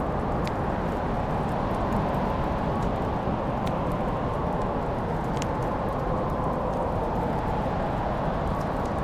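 Wood fire burning in a fireplace: a steady low rush under scattered sharp crackles and pops, the clearest about half a second in and just past five seconds.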